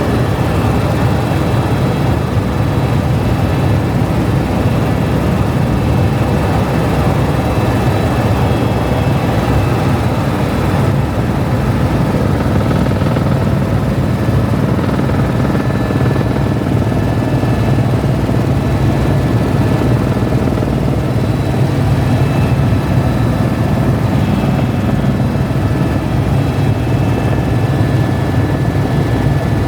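Helicopter in flight: a steady, loud drone of rotor and engine, with a thin high whine held over it.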